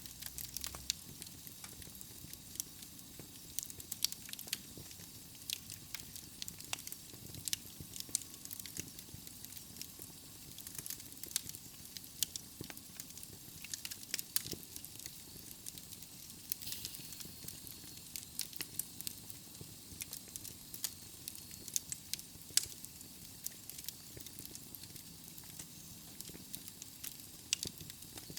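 Wood logs burning in a fireplace, crackling with frequent irregular sharp pops and snaps over a soft steady hiss of the flames.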